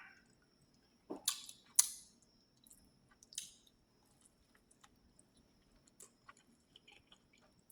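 Close-miked eating sounds: a few short, sharp mouth sounds between about one and two seconds in and another a little later, then only faint clicks while chewing goes on quietly.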